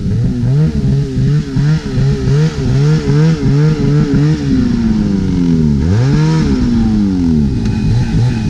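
Snowmobile engine revving in quick, rhythmic throttle blips, about two to three a second. Then the revs sag for over a second, rise sharply about six seconds in, and go back to pulsing near the end.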